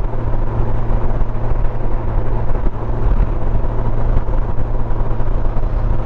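Honda Gold Wing motorcycle at cruising speed: a steady drone of engine and road noise with rushing air, heard from the moving bike.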